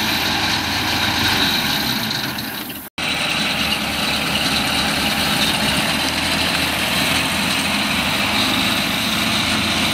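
The Volkswagen Schwimmwagen's air-cooled flat-four engine running steadily as the amphibious car moves slowly through shallow water, with a brief break in the sound about three seconds in.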